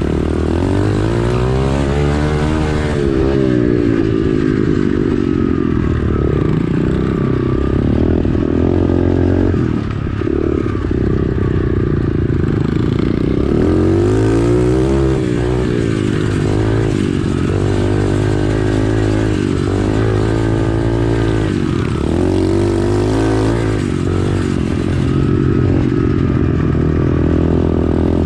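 Small 110cc single-cylinder four-stroke pit bike engine under hard riding, revving up and dropping back again and again as the rider works the throttle and gears around a dirt track, with a brief drop in revs about ten seconds in.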